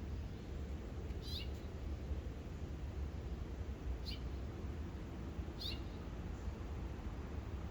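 A bird calling in short, high chirps, three in the space of a few seconds, over a steady low rumble.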